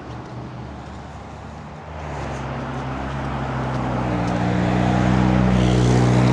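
A noisy car engine approaching on the road, its steady low engine note coming in about two seconds in and growing louder, over general traffic noise.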